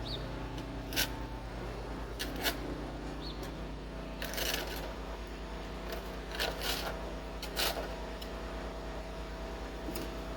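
A snow shovel scraping and scooping snow in about six short strokes, spaced irregularly, over a steady low hum.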